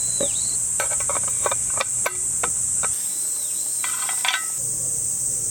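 A steady high-pitched drone of insects, with two clusters of sharp knocks and clicks about a second in and again around four seconds in, and a few short dipping whistles.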